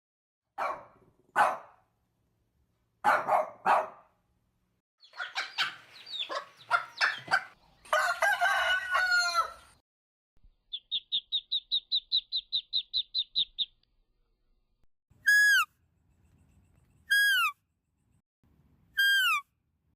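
A sequence of separate farm-bird calls, including a rooster crowing, then a fast even trill of about six notes a second and three short, high, falling calls about two seconds apart.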